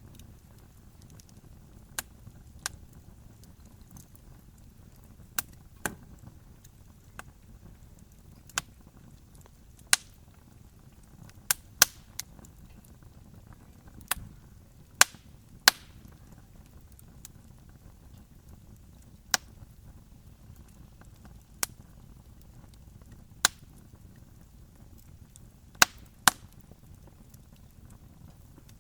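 Wood campfire crackling: sharp, irregular pops, about seventeen of them and sometimes two close together, over a faint low steady hiss.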